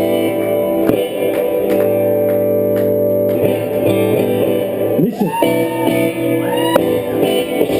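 Guitar played live, chords plucked and left ringing, with notes sliding in pitch about five seconds in.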